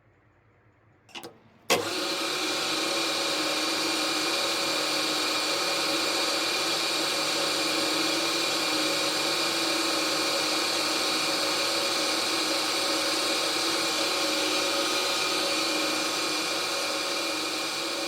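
A workshop machine's electric motor is switched on with a click about two seconds in, then runs steadily at a constant speed with a steady hum and whine.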